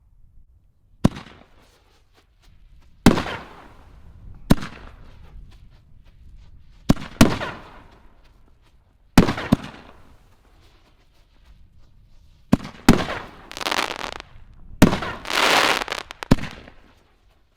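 6-inch King Dragon canister shells firing in sequence: about eleven sharp, hard-hitting bangs at irregular gaps of a fraction of a second to a few seconds. Each bang is followed by a fading hiss, and the hiss runs longer after the last few bangs.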